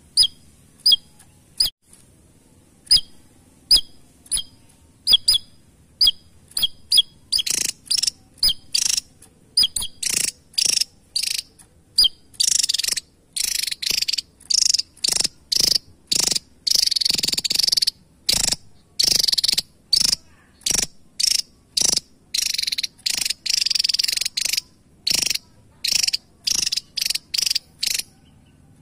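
Javan tesia calling: sharp, high chip notes about once a second, coming faster and giving way after about a dozen seconds to longer buzzy, rattling bursts.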